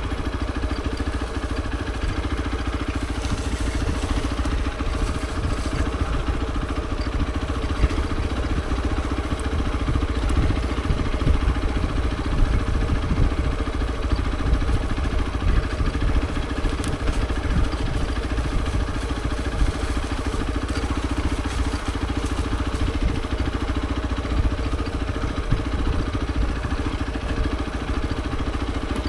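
Hero XPulse 200 4V's single-cylinder four-stroke engine running at a steady pace, with a strong low rumble throughout.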